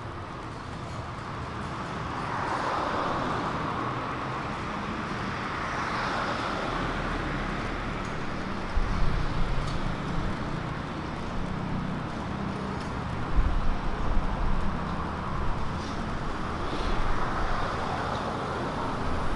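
City street traffic: vehicles pass one at a time, their tyre and engine noise swelling and fading, with a low rumble and a few brief knocks in the second half.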